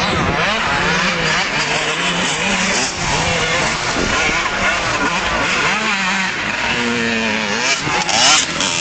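Several motocross bikes' engines revving and changing gear, their pitches rising and falling over one another, loudest near the end.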